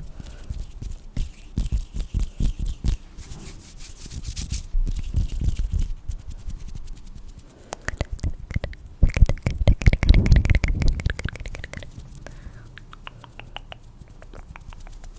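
Close-miked ASMR sounds: dense rubbing and fine clicking right at the microphone, with a louder, heavier stretch about two-thirds of the way through.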